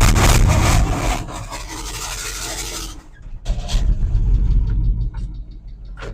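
Engine of a mid-1970s Chevrolet C30 square-body dump truck running and being revved: loud for the first three seconds, easing off, then rising again about three and a half seconds in. The owner says this engine has a rod knock.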